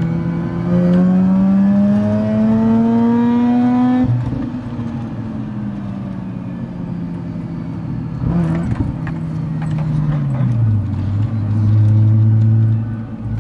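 Car engine heard from inside the cabin, rising steadily in pitch as it accelerates for about four seconds, then easing off and running at a lower, steady pitch that drops further about ten seconds in. A few short knocks sound about eight seconds in.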